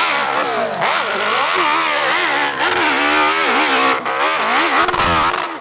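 Motorcycle engine on a hill climb revving hard, its pitch rising and falling rapidly again and again as the throttle is worked.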